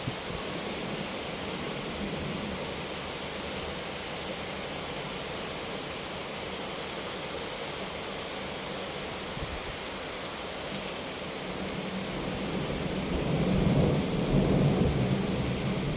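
Steady rain hiss, with a low roll of thunder building near the end and rumbling for a few seconds.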